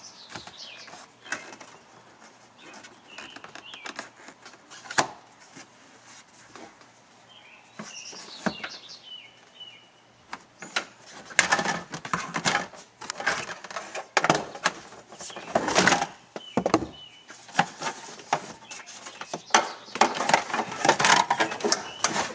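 Plastic interior trim panels being pried and pulled off a Ford Explorer's rear cargo area. Scattered clicks and knocks at first, then busier clattering and rustling from about halfway through, with faint bird chirps in the background.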